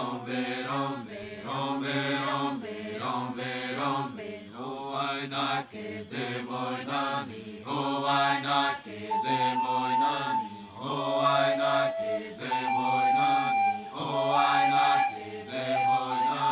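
Rhythmic chanting by voices in short, repeated phrases. About nine seconds in, a flute joins, holding steady notes over the chant.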